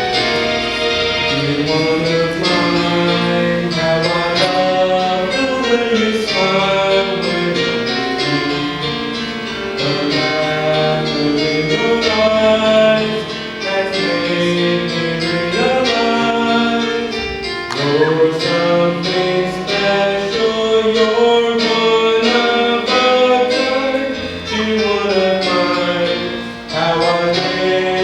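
Singing with instrumental accompaniment: a song from a stage musical.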